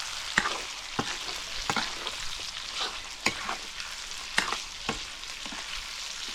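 Vegetable curry sizzling in a hot pan while being stirred, with a spoon knocking and scraping against the pan several times at irregular intervals.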